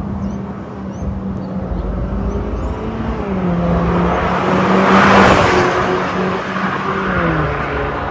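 Mercedes-Benz A180 (W176) 1.6-litre turbo four-cylinder running through an MS-R valved cat-back exhaust as the car drives by. The exhaust note swells to its loudest about five seconds in and then eases, its pitch dropping twice.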